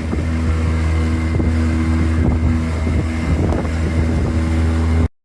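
Motorboat engine running steadily with a strong low hum and a steady whine above it. It cuts off abruptly near the end.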